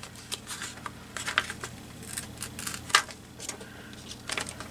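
Paper being handled and trimmed by hand: a string of irregular short crinkles and ticks, the sharpest about three seconds in.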